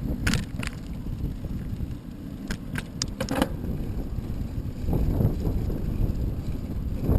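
Wind buffeting the microphone while riding into a headwind, a low steady rumble. Several short sharp rattles or clicks come in the first half.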